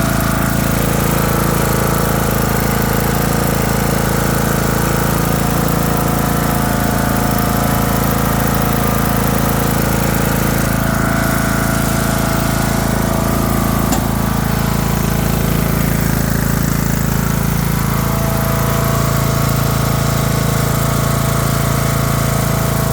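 Craftsman LT3000 lawn tractor engine running steadily after starting, with small shifts in speed about eleven and eighteen seconds in.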